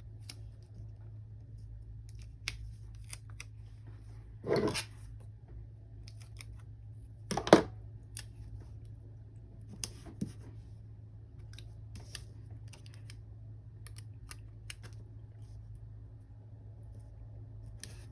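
Sticker sheet and paper handled close up: scattered light clicks and crinkles as stickers are peeled and pressed onto a journal page, with two louder short rustles, one about four and a half seconds in and a louder one about three seconds later, over a low steady hum.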